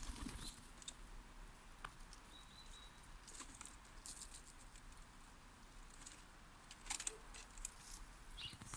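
Faint, scattered clicks and scratches, with a short high bird note about two and a half seconds in and another near the end.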